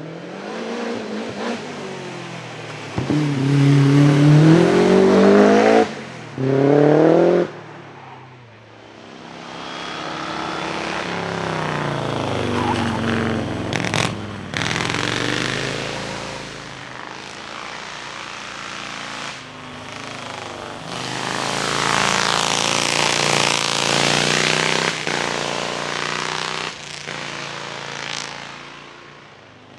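Vintage racing car engines revving hard under full acceleration. The pitch climbs and drops again and again as the cars change gear, and several cars are heard one after another. There is one sharp crack in the middle.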